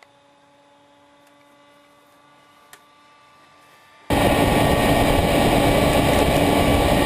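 A faint steady electrical hum with one small click. About four seconds in, it cuts suddenly to a loud, steady rushing noise with a low drone under it.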